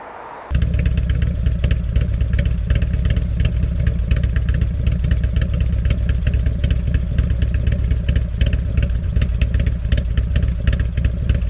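Harley-Davidson 88 cubic inch V-twin engine idling through an aftermarket muffler, with an uneven, pulsing beat. It comes in abruptly about half a second in and stays steady.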